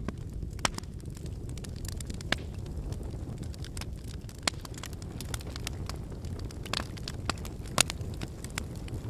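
Wood fire burning: a steady low rumble of flames with irregular sharp crackles and pops from the burning logs, a few louder snaps scattered through.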